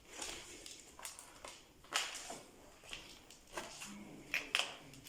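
Footsteps: irregular steps and scuffs, the loudest about two seconds in and near the end.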